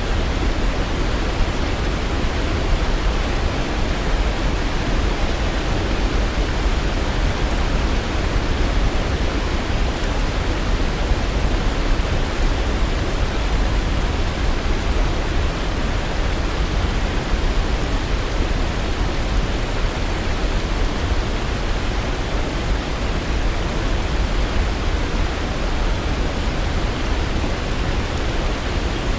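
Waterfall: a steady, unbroken rush of falling water, fairly loud and even throughout.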